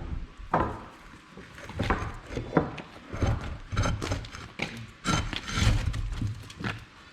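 Irregular knocks, scrapes and clunks of tools and heavy parts being handled in a workshop.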